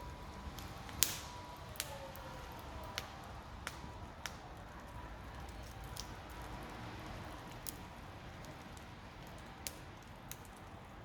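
Wood campfire crackling: sharp, irregular pops every second or two over a low steady hiss, the loudest about a second in.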